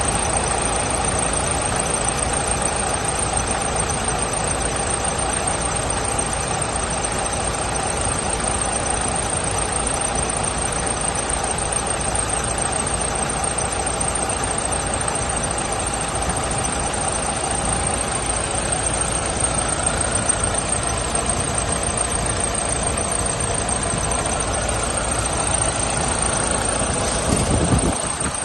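Diesel engine of a Setra S 516 HD coach running steadily, with a brief louder rise near the end before it settles a little lower.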